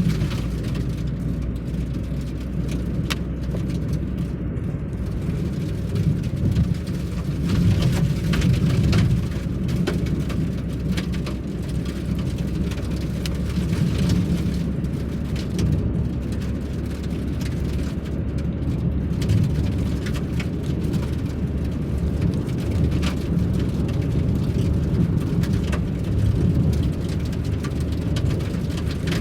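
Steady low road and engine noise of a vehicle driving, with scattered small ticks and knocks throughout.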